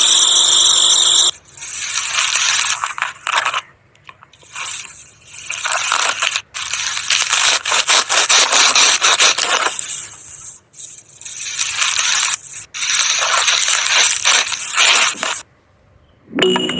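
Rough scraping noise in irregular bursts of one to three seconds, separated by short pauses, with clicks running through it.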